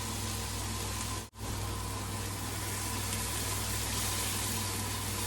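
Steady sizzling of a pan of mushrooms, onions and garlic with cooking cream over the heat, under a low steady hum, cut by a brief dropout about a second in.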